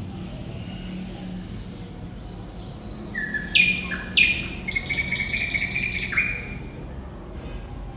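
Thrush nightingale singing one phrase: a few high whistled notes, then lower falling notes and a loud fast rattle, ending about six seconds in. A low steady rumble lies underneath.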